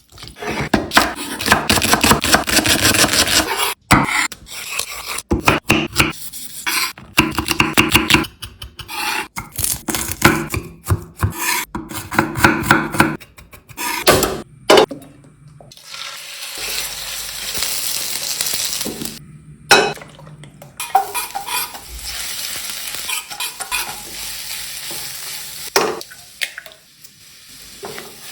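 Stir-frying chicken fried rice in a pan: a utensil scrapes and clinks against the pan over the sizzle of frying food. The sound comes in short stretches broken by abrupt cuts, and the second half settles into a steadier sizzle.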